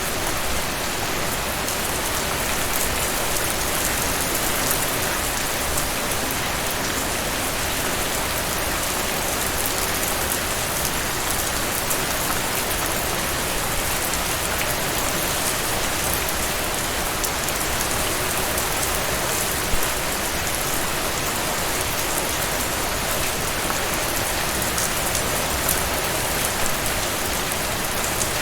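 Steady rain falling, with the patter of separate drops over an even hiss.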